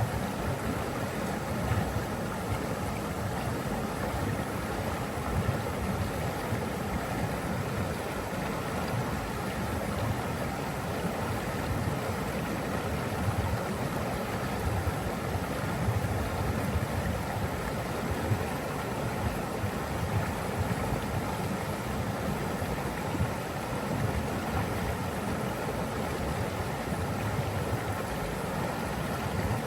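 Rushing water running steadily, a dense even rush weighted toward the low end.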